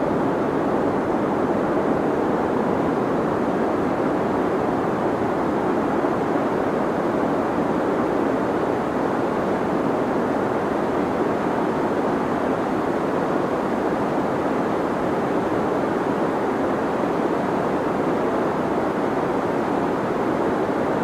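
Steady deep noise used as a sleep sound, an even low hiss with its weight in the lows and mids and little treble, unchanging throughout.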